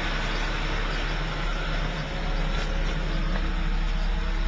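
Steady low rumble of a car engine idling, with an even hiss over it.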